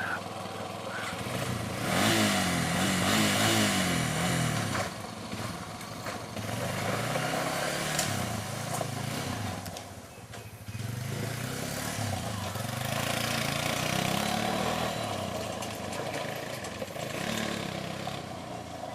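A vehicle engine running and revving, its pitch rising and falling again and again, over a steady hiss.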